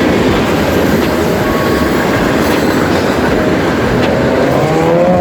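Freight train cars rolling past, a steady loud rumble of wheels on rail with clickety-clack and faint wheel squeal. Near the end a rising engine tone comes in over it.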